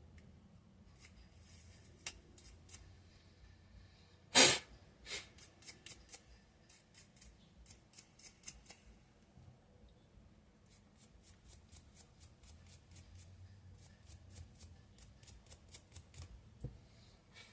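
A small brush scrubbing dirt out of an electric nail-sander handpiece: runs of quick, light scratchy ticks from the bristles, with one louder clack about four and a half seconds in.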